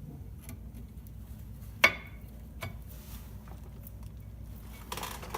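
New brake pads being seated into the caliper mounting bracket's metal abutment clips: one sharp metallic click with a short ring about two seconds in, a few light metal taps, and a brief scrape near the end.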